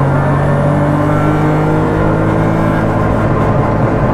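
Modified Volkswagen Polo INRC rally car's engine and exhaust running loud and steady under way, heard from inside the stripped, caged cabin.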